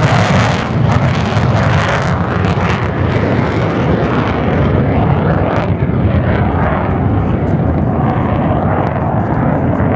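Jet noise of a Mitsubishi F-2A fighter flying past. A loud high hiss fades within the first two seconds, leaving a steady low rumble as it draws away.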